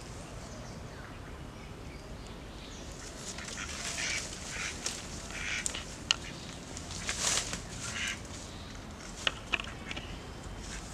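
A duck quacking in a series of raspy bursts, with a few sharp clicks among them.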